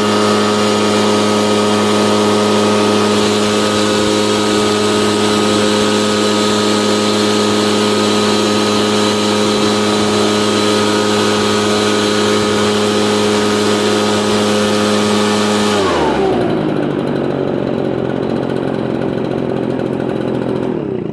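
Echo PB770H backpack blower's two-stroke engine running steadily at full throttle with a loud rush of air, then throttled back about 16 seconds in so the pitch slides down and the air noise drops away, idling briefly before it is shut off at the end. It is being run hot and stopped for a hot-restart test.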